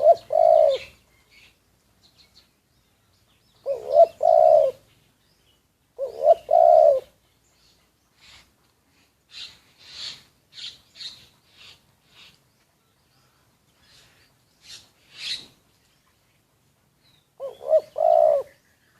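Spotted dove cooing: four phrases of low coos, each about a second long, near the start, about 4 and 6.5 seconds in, and near the end. Other small birds chirp faintly at a higher pitch in the gaps between.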